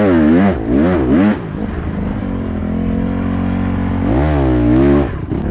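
Dirt bike engine revving up and down in quick surges under riding, easing to a steadier lower note for a few seconds, then revving up and back down again near the end.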